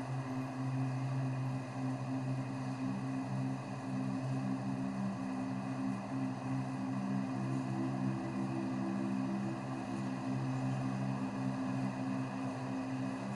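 Steady hum of running machinery: a constant, low, pitched drone that shifts slightly in pitch partway through.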